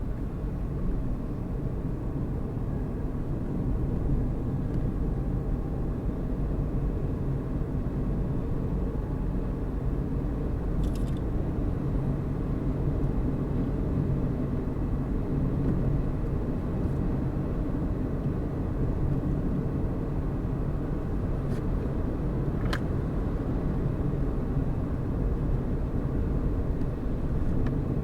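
Car driving at a steady speed: a steady low rumble of engine and tyres on the road, with a couple of faint ticks.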